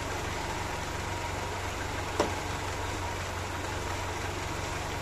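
Carburetted Mercedes-Benz M102 four-cylinder 2.0-litre engine idling steadily while warming up. A single sharp click is heard about two seconds in.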